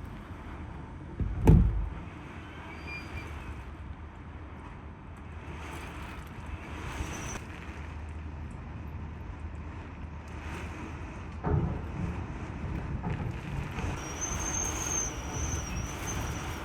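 Typhoon-force wind buffeting the microphone as a steady low rumble. A sharp low thump about one and a half seconds in is the loudest sound, and a smaller one comes about eleven and a half seconds in.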